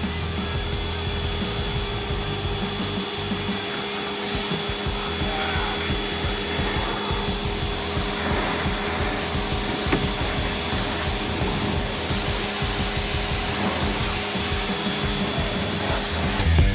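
Pressure washer running steadily and spraying, a constant hiss with a thin motor whine.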